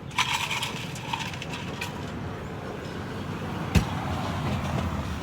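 Road traffic running steadily, with scattered light clinks and one sharp knock a little past the middle.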